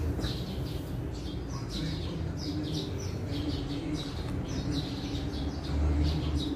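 Birds chirping, many short high chirps repeating in quick clusters, over a low steady hum.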